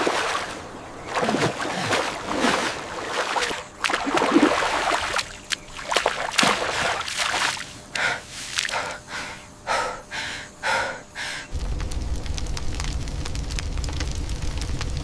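Gasping, heavy breathing and sloshing water in short irregular bursts; about eleven and a half seconds in, this cuts to a steady low rumble.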